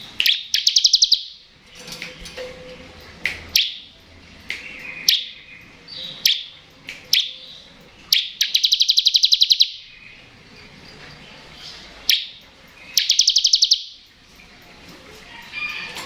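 Bar-winged prinia (ciblek) singing: sharp, high single chips and three fast, buzzing trills of about a dozen notes a second. These trills are the 'ngebren' (bren-gun) style of song.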